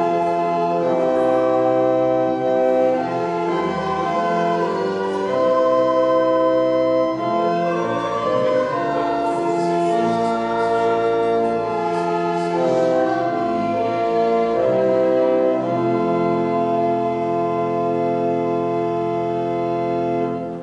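Organ playing slow, sustained chords; the last chord is held for about five seconds and then stops.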